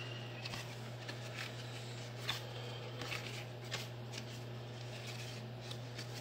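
Cardboard template handled and held against the truck's sheet metal for a test fit: scattered light rustles, scrapes and taps, over a steady low hum.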